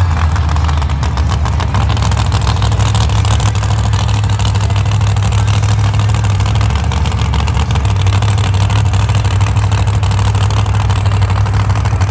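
Monster truck engine running loud and steady, a dense low rumble with no marked revs.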